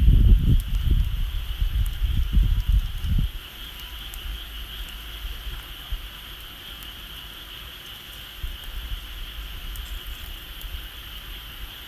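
Outdoor bonfire crackling with scattered small pops, under a steady high-pitched drone. Wind buffets the microphone with a low rumble for the first three seconds or so, then dies down.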